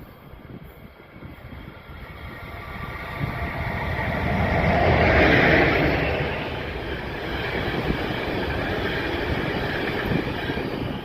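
A train passing by, growing louder over the first few seconds and loudest about halfway, then running on steadily with a high whine over the rumble of the wheels.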